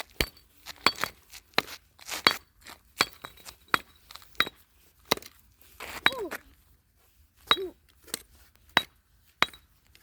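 A wooden axe striking a brick over and over, about two hard blows a second, each with a short clinking ring; the brick does not break.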